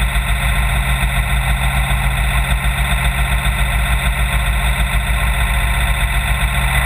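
Fire brush truck engine running steadily with an even, fast low throb and no change in speed.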